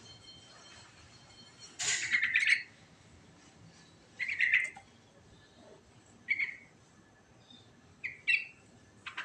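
Yellow-vented bulbul (trucukan) singing in short, bubbly phrases: five bursts of song a second or two apart, the longest and loudest about two seconds in.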